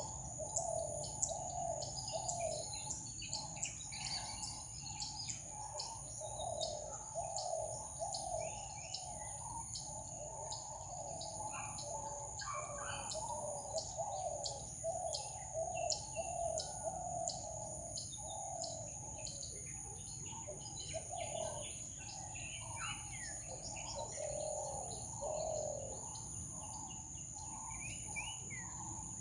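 Many birds chirping and calling in quick succession, over a steady high-pitched insect drone.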